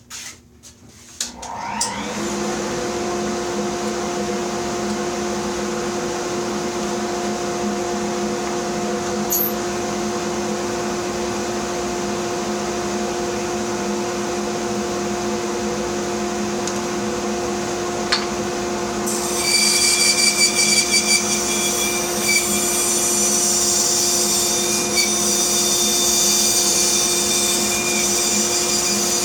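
Bandsaw starting up about two seconds in and running steadily with a constant hum. From about nineteen seconds the blade cuts into a block of wood along the fence, adding a louder, higher-pitched hiss.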